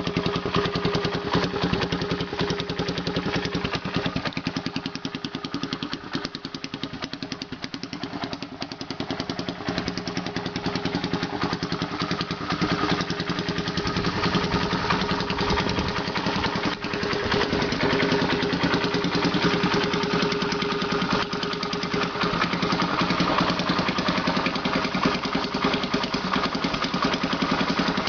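1974 Honda XL175 single-cylinder four-stroke motorcycle engine running at a steady idle through a homemade exhaust of electrical conduit, which gives it a higher note than a deep stock exhaust. The sound eases off for a few seconds, then fills out again.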